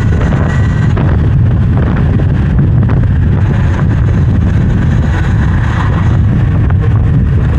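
Heavy, steady wind noise on the microphone while riding an electric dirt bike at speed.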